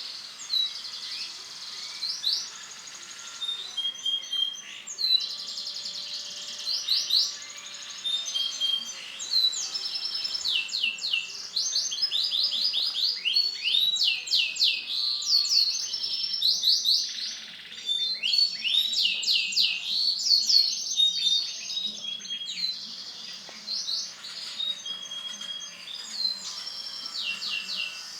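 Male domestic canary singing a long, continuous song of high, rapid trills and runs of quickly repeated down-sweeping notes, broken by only brief pauses.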